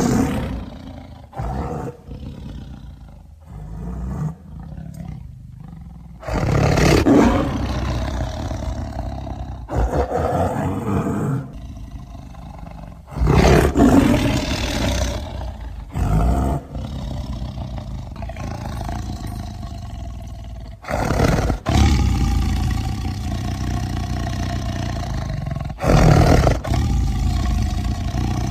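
Sound effects for an animated cougar: a series of about seven snarling roars a few seconds apart, each trailing off into a low, steady rumbling growl.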